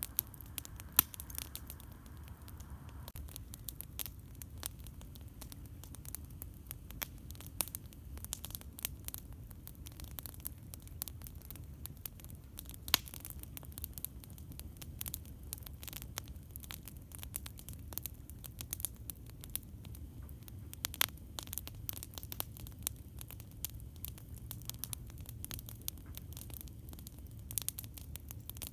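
Campfire crackling: irregular sharp pops and snaps from burning wood, with a few louder pops, over a steady low rumble.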